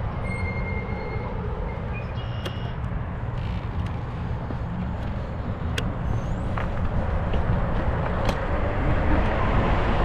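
Steady rumble of riding a 20-inch fat-tire e-bike along a trail: wind on the microphone and tyre noise, getting a little louder in the second half.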